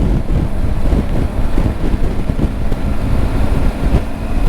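Wind buffeting a helmet-mounted microphone while riding a Triumph Tiger 900 motorcycle at road speed: a dense, steady low rumble with a faint engine tone underneath.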